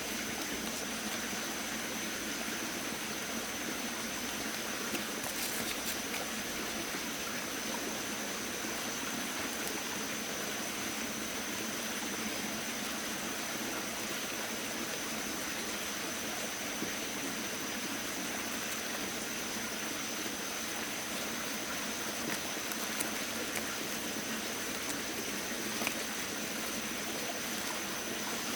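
Steady rushing water with a thin, steady high-pitched tone running through it.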